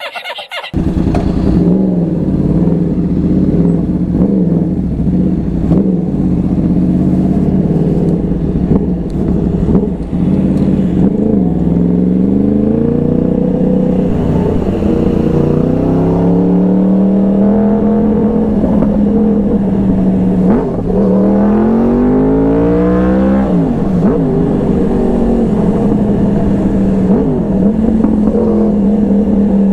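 Yamaha R1's 1000 cc crossplane inline-four engine under way, running mostly at steady revs. Several times it accelerates with rising revs, then drops sharply in pitch at a gear change, most clearly in the last third.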